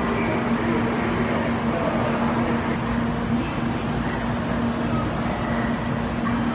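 Steady din of a Shinkansen station platform, with a constant low hum running under it.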